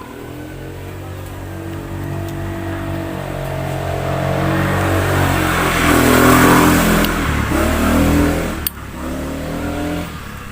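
A motor vehicle's engine running and revving, growing louder to a peak about six seconds in and falling away near the end, with a sharp click shortly before it fades.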